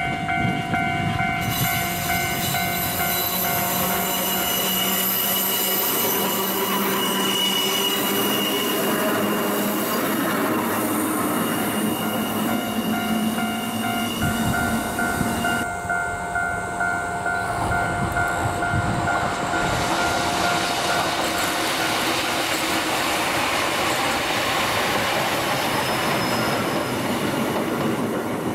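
A vintage Kotoden electric train running on sharply curving track, its steel wheels squealing against the rails. The sound changes abruptly about 16 seconds in.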